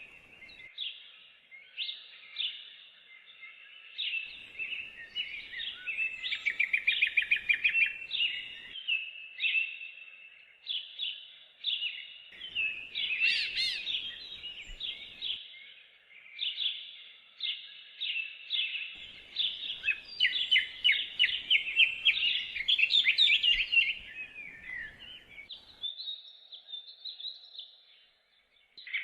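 Songbirds singing in a dense chorus of quick trills and chirps that overlap with hardly a pause, thinning to a few quieter notes near the end.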